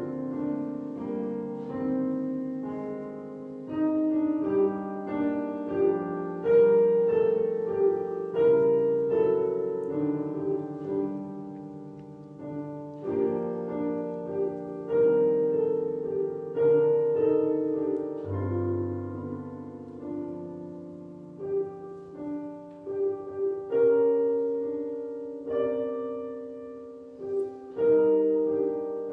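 Piano playing a slow church prelude, with notes struck and left to ring.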